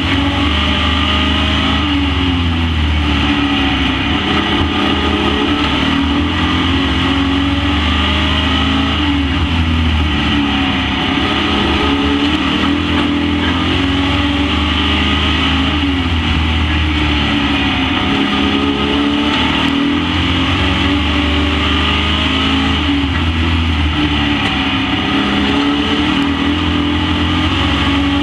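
Super Pro race trucks' engines running laps on a short oval. Several engines overlap, their pitch rising and falling over and over as they rev up and ease off.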